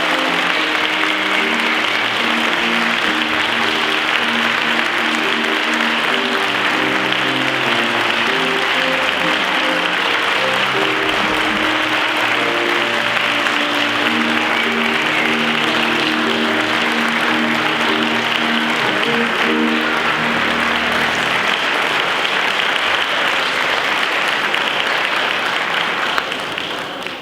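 Audience applauding over instrumental music. The music stops about three quarters of the way through, and the applause carries on alone, dying away near the end.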